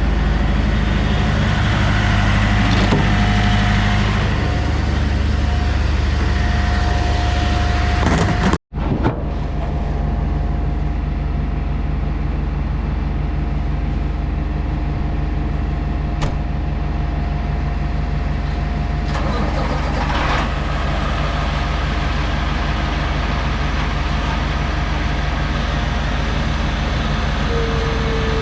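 Cummins diesel engine of a Kenworth K200 road-train prime mover running steadily at low revs. The sound cuts out completely for a moment about a third of the way in, and there is a short hiss about two-thirds of the way through.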